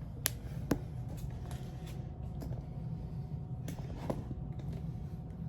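A few small, sharp clicks and taps of makeup items being handled, two close together near the start and one more about four seconds in, over a steady low hum.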